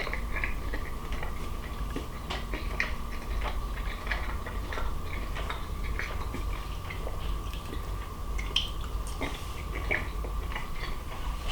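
Someone chewing grilled chicken strips, with scattered small clicks and mouth sounds, over a faint steady tone.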